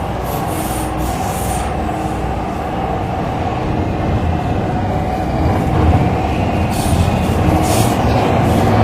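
MTR Tseung Kwan O line C-Train running along the track between stations: a steady rumble of wheels and running gear. A brief thin squeal comes about four to five seconds in, and short hissing rushes come near the start and again near the end.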